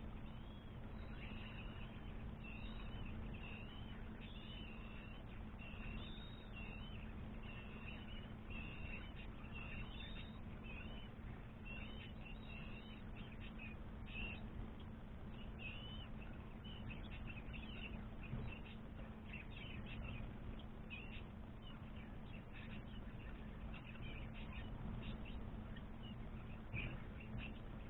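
Many short, high bird chirps in quick succession, densest over the first half and sparser, choppier chips after, over a steady low electrical hum.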